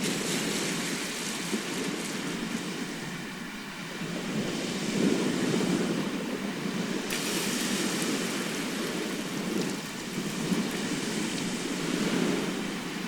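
Sea surf: waves breaking and washing up the shore, a rushing noise that swells and ebbs, with a brighter hiss rising about seven seconds in.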